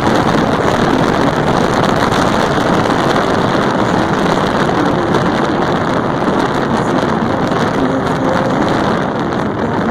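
Loud, steady rush of wind over the microphone while riding a motorcycle, with the bike's engine running underneath.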